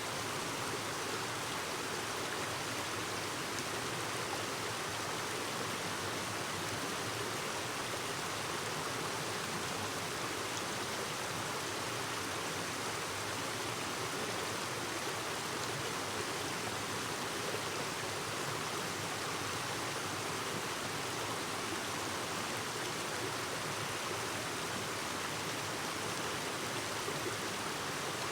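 Clear mountain stream babbling over rocks, a steady, even rush of water.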